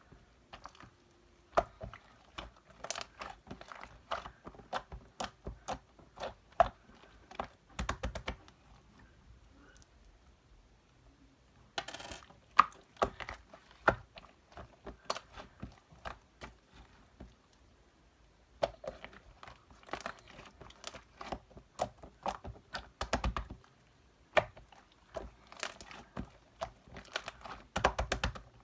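Irregular runs of small sharp clicks and taps, like rapid typing, broken by a few quiet pauses, with a brief crinkly rustle about twelve seconds in.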